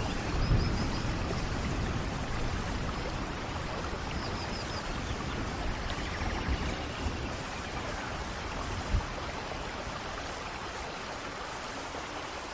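Steady heavy rain falling, with the last of a thunder rumble dying away in the first second.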